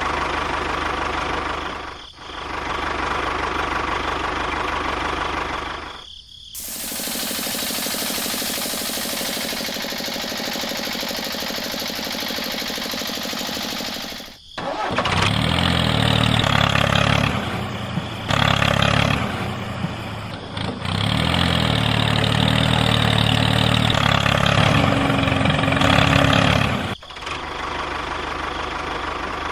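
Engine or motor running in several cut segments, broken off sharply about 2, 6, 14 and 27 seconds in. The middle stretch is a steady hiss, and the later stretch is a louder, lower engine drone.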